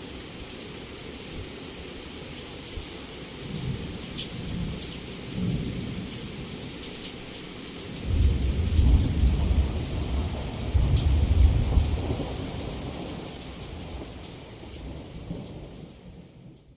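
Heavy rain falling steadily, with thunder: two short low rumbles about four and five and a half seconds in, then a long, loud rumble from about eight seconds that swells twice and dies away. Everything fades out at the very end.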